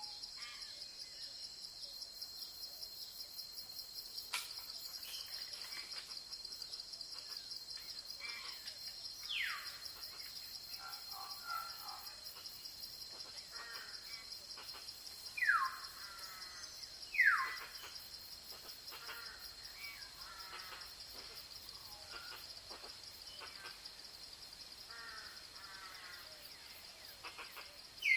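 A steady, rapidly pulsing insect chorus of crickets or similar insects, with birds calling over it. The loudest calls are three sharp notes, each sweeping quickly down in pitch, heard once in the first half and twice close together in the middle, among fainter chirps.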